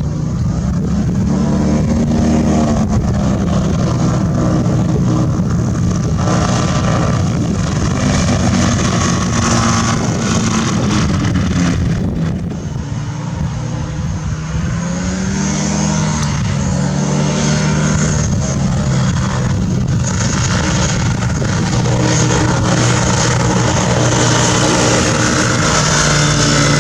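Rotax 503 two-stroke twin engine of a Fox V2 ultralight running at flight power. Its pitch dips and then climbs back a little before halfway, with a brief drop in loudness.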